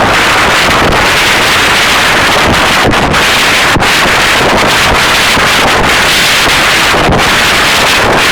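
Strong wind blasting the microphone: loud, continuous wind noise with no letup.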